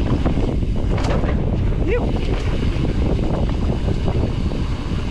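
Wind buffeting the microphone and tyres rolling and rattling over a dirt trail as a Specialized Stumpjumper EVO Comp mountain bike descends at speed, with a brief squeak about two seconds in.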